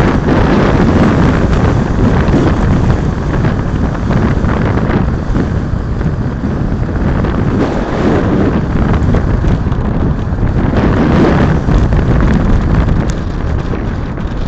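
Wind buffeting a moving microphone: a loud, steady rush of noise, heaviest in the low end.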